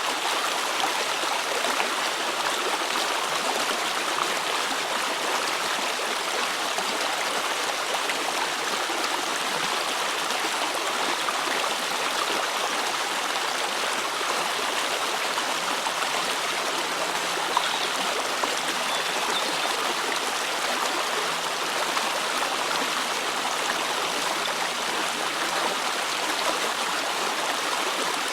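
Flowing water of a small river, a steady rushing stream sound that does not change.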